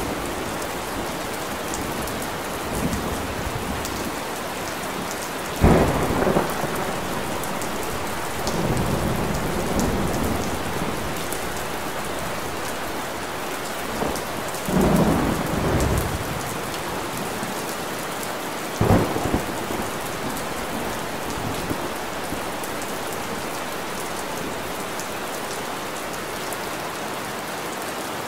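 Steady rain falling, with several short, louder low rumbles rising out of it from time to time.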